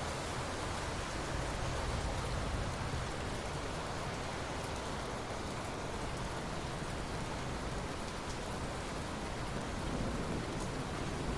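Steady rain falling on ocean water: an even hiss with faint scattered drop ticks.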